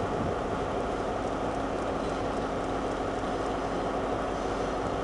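Steady rumble and hum of trains at a station throat as a Heathrow Express Class 332 electric train draws in slowly on the curve, with a few faint clicks.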